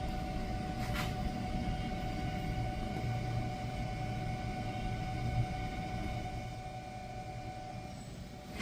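Volvo S90 electric power steering rack grinding as it is worked: a low rumble that swells in the middle and eases off, over a steady high whine, with a click about a second in. The grinding is the sign of a faulty rack.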